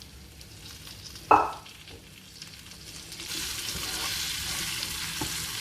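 Pre-cooked chicken going into a pan of hot oil and spice masala: a single sharp knock just over a second in, then loud sizzling and frying from about three seconds in.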